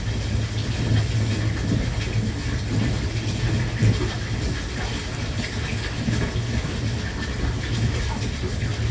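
Steady running noise heard inside a Thunderbird limited express electric train: a continuous low rumble with faint scattered clicks from the wheels on the rails.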